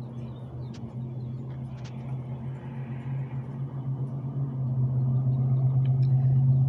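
Steady low mechanical hum with a higher overtone, growing louder about four and a half seconds in, with a few faint clicks over it.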